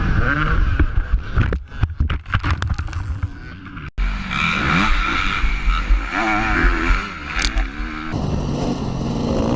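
Dirt bike engines revving up and down, with a spell of clattering and scraping like a bike going down. The sound changes abruptly twice, about four and eight seconds in.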